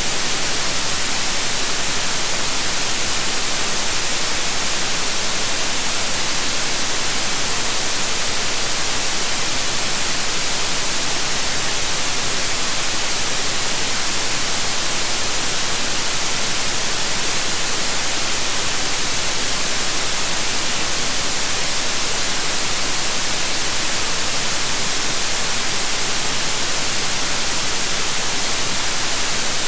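Steady white noise: an even, unchanging hiss, strongest in the treble, with no other sounds.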